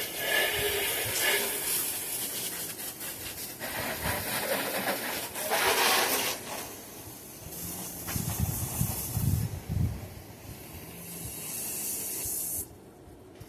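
Spray hissing onto a truck engine in several long bursts while the oil residue is cleaned off, with a few low thumps in the middle; the spraying cuts off shortly before the end.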